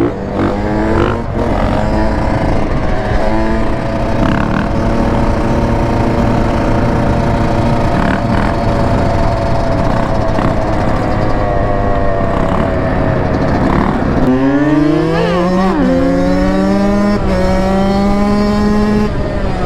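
Dirt bike engine running at a steady pitch, then revving up sharply about fourteen seconds in and holding at higher revs.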